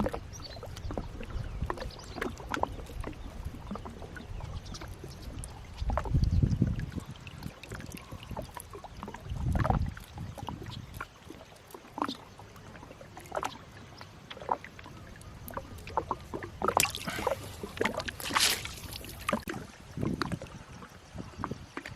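Water splashing and dripping with knocks and clicks against a small boat as a gill net is hauled in by hand, with dull thumps around six and ten seconds in and a longer splash a little past three-quarters of the way through.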